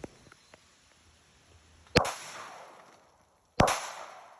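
Two pistol shots from a Glock 22 .40-caliber handgun, about a second and a half apart, each followed by a decaying echo.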